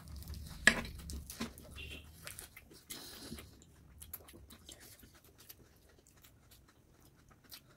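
Close-up chewing of a large bite of crisp lettuce leaf wrapped around food: wet crunching and mouth clicks, loudest about a second in, then thinning out to scattered clicks.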